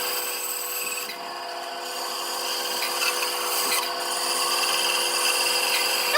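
A power tool running steadily on wood, its motor whine holding an even pitch.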